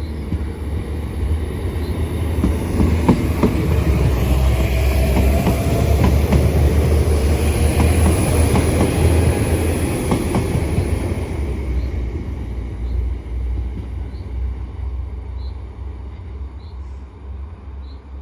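Northern Ireland Railways Class 4000 diesel multiple unit pulling out and passing, its engine and wheels clicking over the rail joints. It builds to its loudest about five to ten seconds in, with a high whine at the peak, then fades away.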